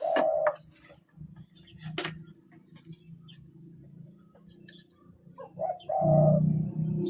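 Birds calling: a dove cooing, once at the start and again about six seconds in, with a brief high trill from a small bird about a second in. A low steady hum starts about six seconds in.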